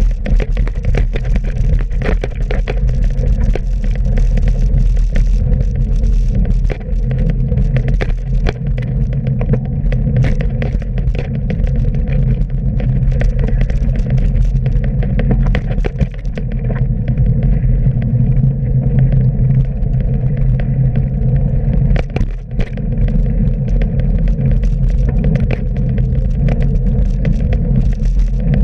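Road and wind noise on a bicycle-mounted camera while riding: a loud, steady low rumble with frequent sharp knocks and clicks.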